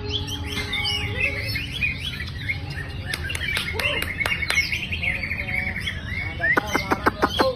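Many caged songbirds singing at once: overlapping whistles and chirps, with one bird keeping up a fast trill through the middle. A quick run of sharp clicks comes near the end.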